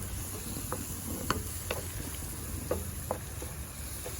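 Onion, ginger, garlic, green chili and curry leaves frying in hot oil in a pan, with a steady sizzle. A spoon clicks against the pan a few times as they are stirred.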